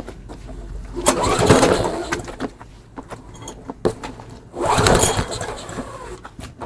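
Briggs & Stratton 5 hp mower engine pull-started twice on its recoil starter, each pull about a second of rope whir and cranking. It does not catch: the owner puts it down to not being able to pull it fast enough without the handlebars fitted.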